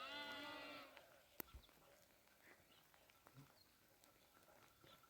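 A sheep bleats once, a wavering call lasting just under a second. Then faint scattered clicks follow, with one sharp tick.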